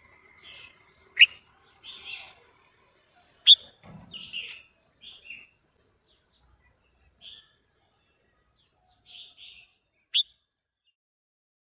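Female red-whiskered bulbul calling: scattered short, soft chirps, punctuated by three sharp, loud notes about a second in, at three and a half seconds, and near ten seconds.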